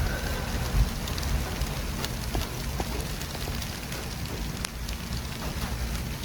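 City traffic ambience: a steady hiss of passing vehicles over a low rumble, with scattered faint clicks and a brief low thump about a second in.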